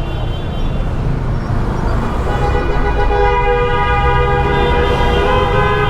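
Vehicle horns honking in a city traffic jam: from about two seconds in, a long held horn blast that lasts to the end, over the steady rumble of engines and traffic.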